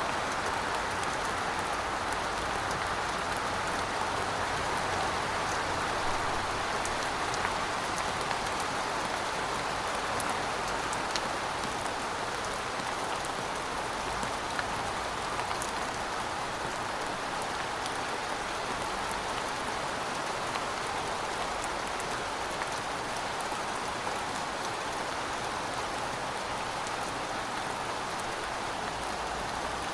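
Heavy rain falling steadily: a dense, even hiss with scattered ticks of single drops.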